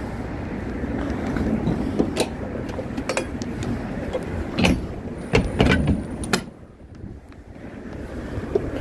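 A run of sharp knocks and clatters over a steady low rumble, with several knocks close together about five to six and a half seconds in, then a brief lull.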